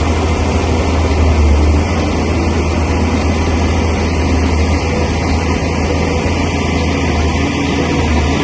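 Bulldozer's heavy diesel engine running steadily, with a strong low drone.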